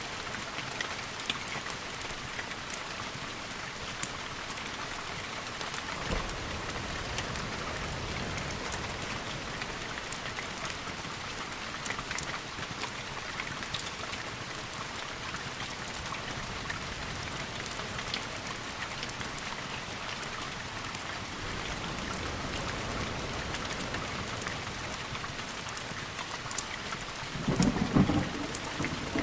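Steady rain hissing, with scattered sharp drop ticks and thunder rolling low in the background; the loudest roll comes near the end.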